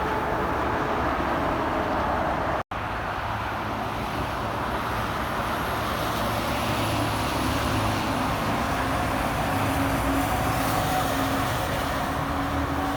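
Heavy trucks and traffic passing on an interstate highway: steady engine and tyre noise, with a faint high whistle partway through. The sound cuts out for an instant about three seconds in.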